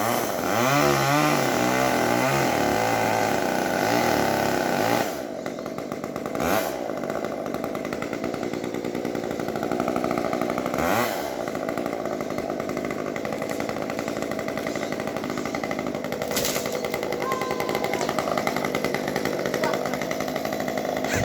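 Chainsaw running at high revs, as when cutting through a tree. The engine pitch wavers and climbs over the first few seconds, then steadies, with brief dips and climbs about six and eleven seconds in.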